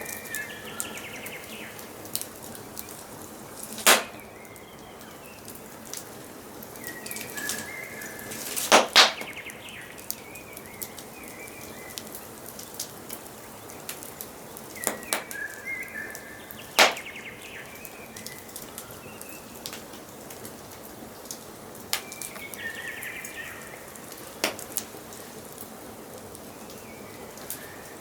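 Wood fire crackling and hissing, with sharp pops every few seconds, the loudest a double pop about nine seconds in. A songbird repeats a short warbled phrase roughly every seven seconds.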